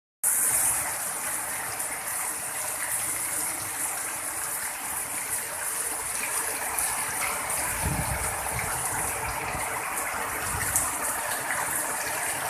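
Heavy rain pouring down in a steady hiss, with a brief low rumble about eight seconds in.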